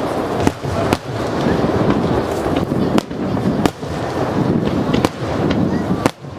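Aerial fireworks shells bursting: a run of sharp bangs, roughly one a second, over a continuous rumble of further explosions.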